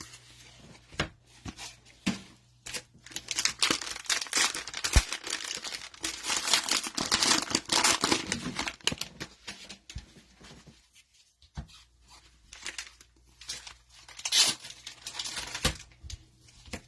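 A cellophane trading-card cello pack wrapper being torn open and crinkled by hand. It comes as irregular crackling with sharp clicks: one long stretch through the middle and a shorter burst near the end.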